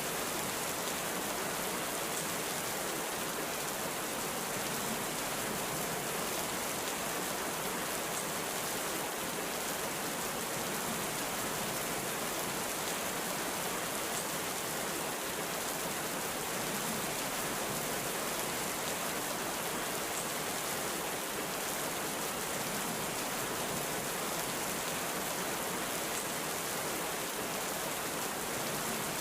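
Heavy rain falling steadily, an even hiss of many drops that does not let up.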